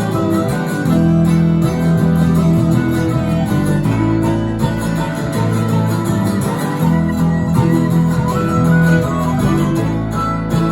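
Instrumental string-band music, led by guitar with fiddle, playing steadily with no singing.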